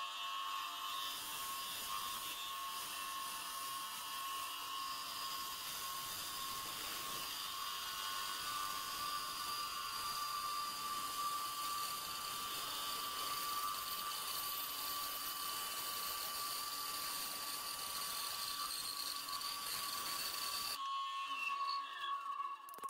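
Small high-speed power tool motor whirring steadily, winding down near the end.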